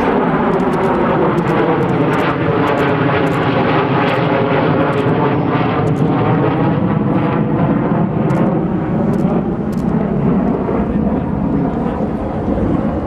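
Northrop Grumman B-2 Spirit flying past, its four General Electric F118 turbofan engines making a loud, steady jet roar whose tone sweeps in pitch as the aircraft moves.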